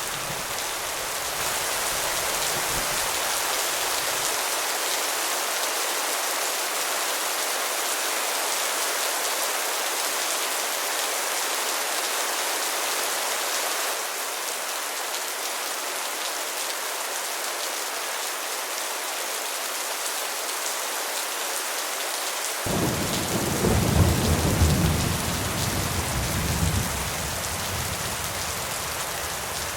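Steady rain falling, with thunder: a deep rumble fades out in the first few seconds, and a new roll of thunder breaks in suddenly about three quarters of the way through and is the loudest moment before dying away.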